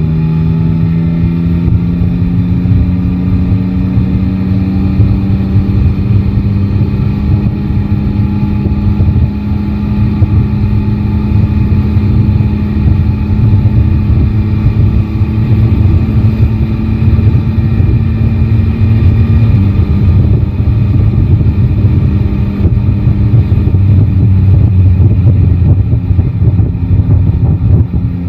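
Yamaha Tracer 9 GT's inline three-cylinder engine running under way, its note rising slowly and steadily, then dropping about twenty seconds in as the throttle eases or a gear changes, over a dense low rumble.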